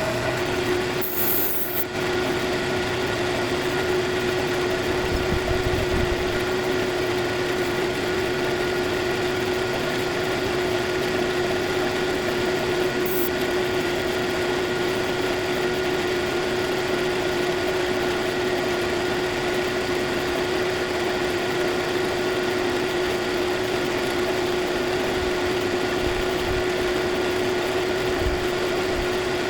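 Cylinder-head surfacing machine running steadily with a constant hum, taking a light 2 thou resurfacing cut across a Duramax cylinder head. A brief hiss comes about a second in.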